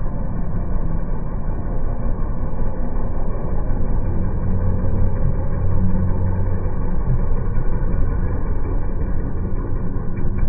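Tao Motor quad bike (ATV) engine running steadily at low revs, a low, even drone that strengthens a little midway.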